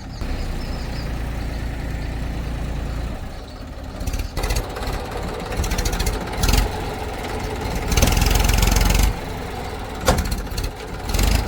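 Diesel engine of heavy machinery running steadily, with several loud noisy bursts from about four seconds in, the longest lasting about a second.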